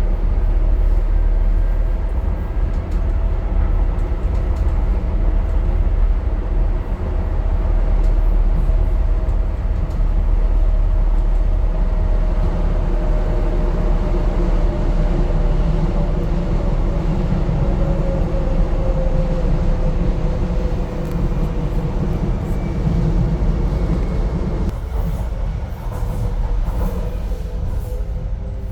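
Docklands Light Railway train running: a steady rumble of wheels on the track with a motor whine whose pitch drops near the end as the train slows.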